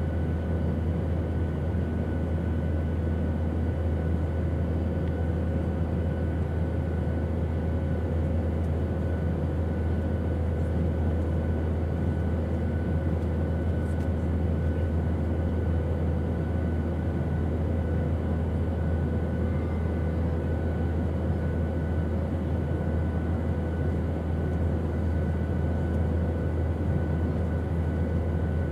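Airplane engine noise: a steady, unbroken drone, loudest in a deep low rumble, with faint steady whining tones above it.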